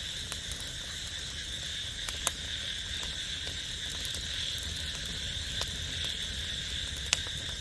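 A steady chorus of insects, a continuous high shrill trill, with a few sharp clicks over it, the loudest about two seconds in and near the end.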